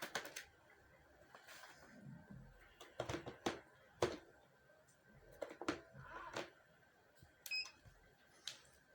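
Scattered plastic clicks and knocks as a robot vacuum cleaner is handled, with a short high electronic beep from the unit about three-quarters of the way through.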